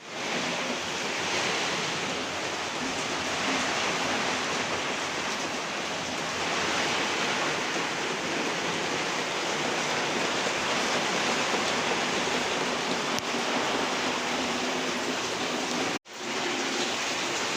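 Heavy rain pouring down in a steady, even hiss, cut off for an instant near the end.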